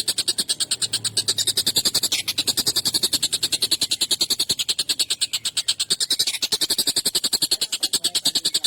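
Tengkek buto (a kingfisher) giving a long, harsh, rattling chatter: a fast, even string of rough notes, about ten a second, without a break.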